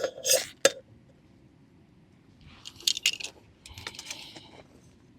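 Small handling sounds: a few sharp clicks with a brief metallic ring at the very start, then two short bursts of rustling or scraping in the middle.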